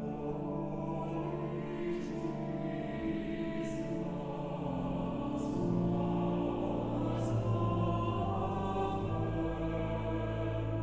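A choir singing a slow sacred piece in long held notes over instrumental accompaniment, with soft 's' sounds from the singers recurring every couple of seconds.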